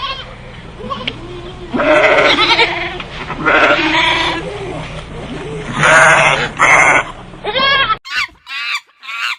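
A goat bleating: three loud, wavering calls about two seconds apart. Near the end the background drops away and a bird starts short, repeated calls, about two a second.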